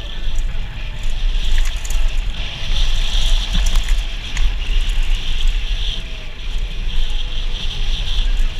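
Wind rushing over the microphone and the tyre noise of a mountain bike riding down a dirt trail: a steady low rumble under a continuous hiss, with scattered sharp clicks and rattles from the bike and trail.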